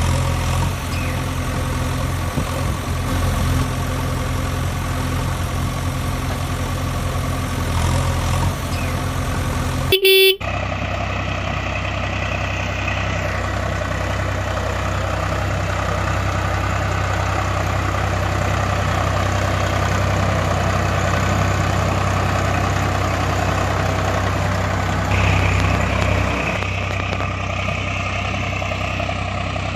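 Heavy tractor engine running steadily, with a short horn toot about ten seconds in. The engine note changes abruptly a few times.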